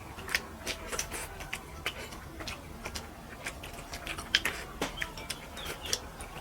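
Close-miked chewing and lip-smacking while eating rice and fish curry: irregular wet mouth clicks, a few each second, with one sharper smack about four and a half seconds in.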